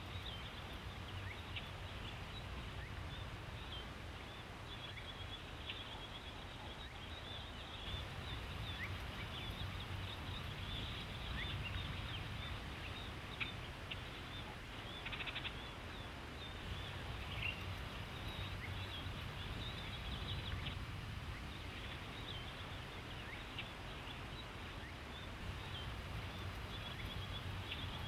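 Outdoor ambience: a steady low rumble and hiss with scattered short bird chirps.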